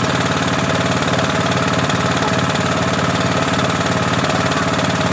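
Engine driving a homemade table saw, running steadily at idle with a fine knocking rhythm, while no wood is being cut.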